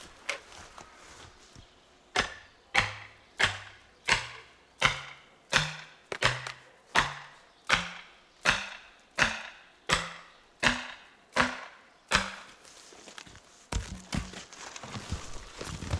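A felling wedge being hammered into the back cut of a tree: about fifteen steady blows some 0.7 s apart, each with a short ringing note that climbs in pitch as the wedge drives tighter. Lighter scattered knocks follow near the end.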